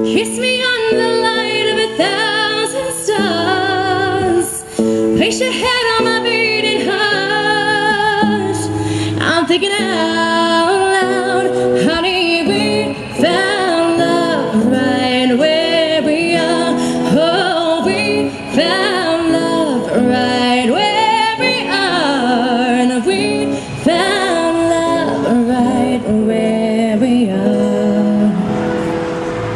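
A woman singing a slow ballad live to her own strummed acoustic guitar, her voice wavering on long notes, holding a long note near the end.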